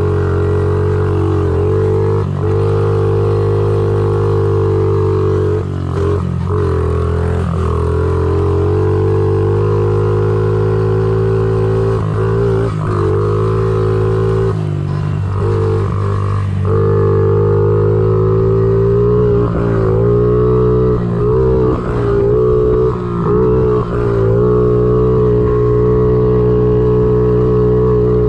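Honda CRF50 pit bike's small single-cylinder four-stroke engine running at a steady, droning pitch, with several brief dips in the engine note.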